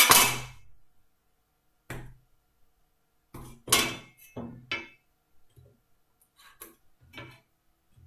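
Metal hand tools clinking and knocking as they are handled and set down on a wooden workbench: a string of separate short knocks and clinks, the loudest at the start and about four seconds in.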